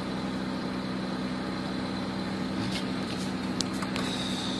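Small Suzuki 4x4's engine idling steadily with an even low hum, and a few light clicks about three seconds in.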